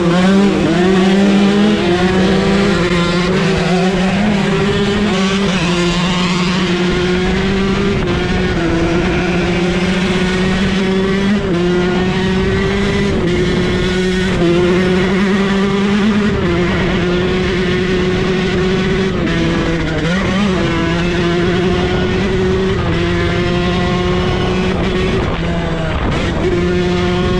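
Dirt bike engine running hard at high revs, its pitch holding nearly level with small steps up and down, and dropping briefly about twenty seconds in before picking back up.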